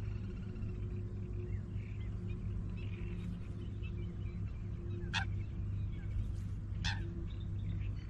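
Birds singing and chirping, with two short, sharp calls about five and seven seconds in, over a steady low drone.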